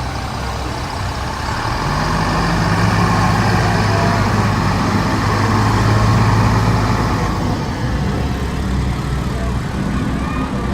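Heavy fire truck engine passing by: a low, steady drone that builds for a few seconds and then fades, without a siren.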